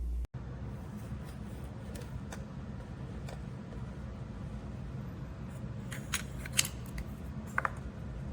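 A few sharp, light clicks and taps near the end, like small plastic parts being handled, over a low steady hum.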